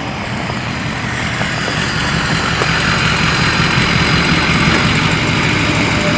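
Ford 6.0 Powerstroke V8 turbo-diesel running through a straight-piped 4-inch axle-dump exhaust, a steady diesel rumble that grows gradually louder.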